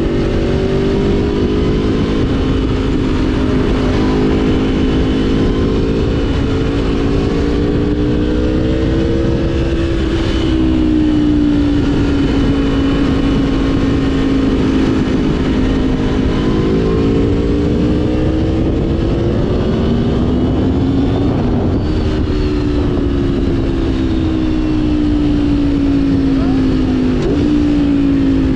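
Aprilia Tuono V4 1000's V4 engine running under way, its note rising and falling gently with the throttle, with a couple of quick drops in pitch.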